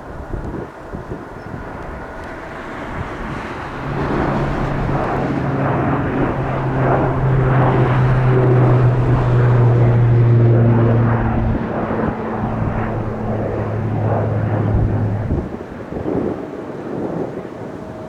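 Amakusa Airlines' ATR 42-600 turboprop passing by, a low propeller drone that swells to its loudest about ten seconds in and then fades, over wind rumble on the microphone.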